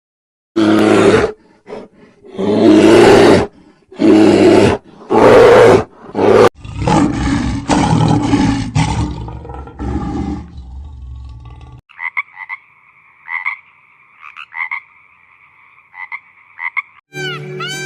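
A big cat roaring four times in quick succession, then a long low growl. This is followed by a run of quieter, high chirping calls, and music starts just before the end.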